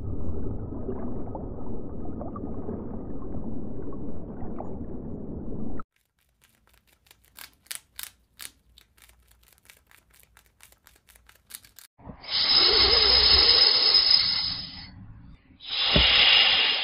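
A run of animal sounds. First a low, muffled underwater rumble for about six seconds. Then faint, sparse, dry clicks from a squirrel. Then a snake's loud hiss in two bursts, the first about three seconds long and the second shorter.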